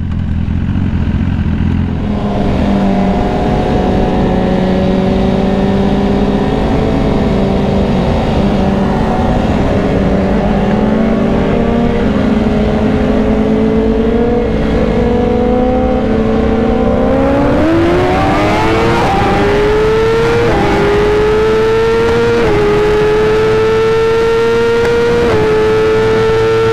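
BMW S1000RR inline-four engine at speed, first held at steady revs for a rolling start. About two-thirds of the way in it goes to full throttle and the pitch climbs steeply. Quick upshifts follow, each a short dip in pitch, with the rider short-shifting before the revs run high. Wind rush runs under it all.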